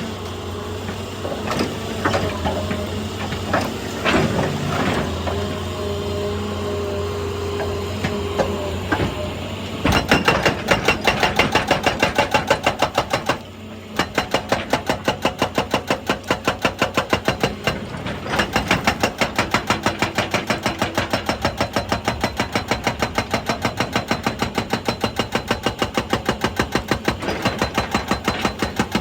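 Excavator's diesel engine running with a few scattered knocks. About ten seconds in, a rapid, steady hammering of a hydraulic rock breaker striking rock starts, pauses briefly once, and then keeps going.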